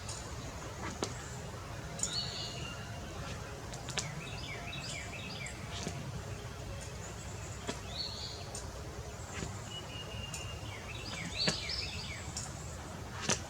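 Birds chirping and calling over and over against a steady low outdoor rumble, with a few sharp clicks, one about four seconds in and a louder one near the end.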